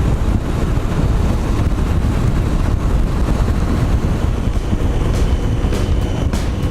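Motorcycle running at road speed, with steady wind rumble buffeting the helmet-mounted microphone and the engine drone underneath.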